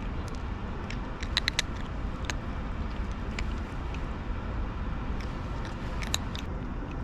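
A kitten eating, with irregular, sharp crunching clicks as it chews.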